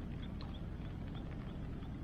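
Steady rush of river water, with an animal calling in a regular series of short, high chirps about three times a second.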